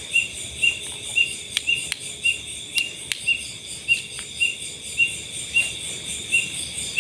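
Night insects: a cricket chirping steadily, about two chirps a second, over a constant high insect drone, with a few faint clicks a couple of seconds in.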